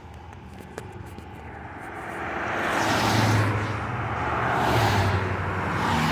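Vehicles passing close by: a rising and falling rush of engine and tyre noise that swells about three times in the second half.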